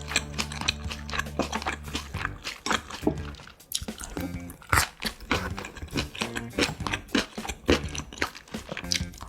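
Close-miked eating: a mouth chewing and biting food, with many quick wet clicks and smacks, over background music.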